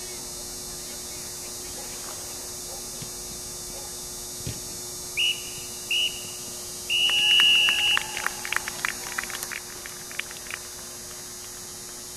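Referee's whistle blown three times, two short blasts and then one long one: the usual signal for the end of the match. It is followed by scattered hand clapping, over a steady low hum.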